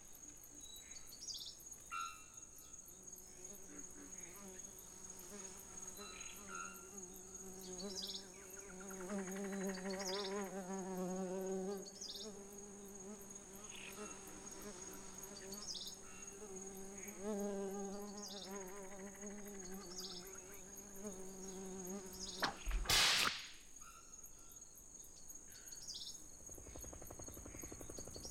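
Buzzing like a flying insect, its pitch wavering as it swells and fades. A steady high whine runs beneath it, and there is one short loud noise near the end.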